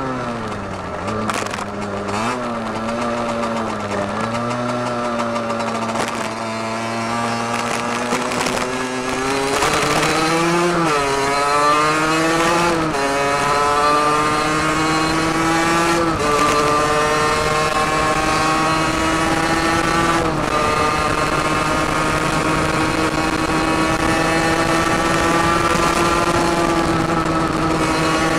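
Derbi Senda DRD 50 cc single-cylinder two-stroke engine with an open Turbokit sport exhaust, under way. Its pitch falls and runs low at first, then climbs through the gears with a short dip at each of four shifts, and settles into a steady high cruising note.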